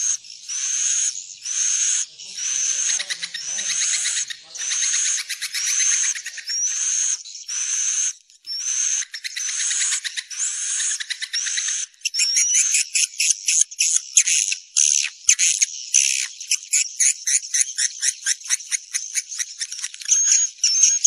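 Swiftlet calls of the kind played as a lure at swiftlet nesting houses: buzzy chirps about a second apart, each ending in a rising note. About twelve seconds in they give way to fast, dense chittering trills.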